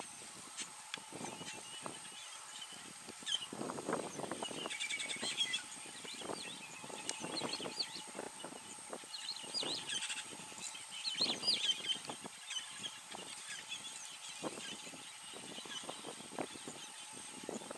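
Wild birds chirping in clusters of quick high calls, over scattered clicks and rustles and a faint steady high-pitched whine.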